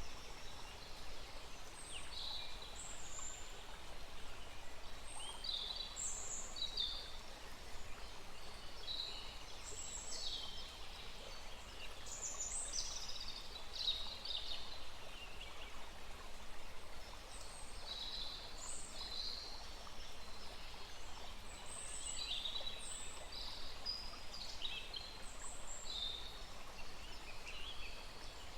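Forest birds calling with many short, high chirps and trills, several overlapping, over the steady rush of a small stream.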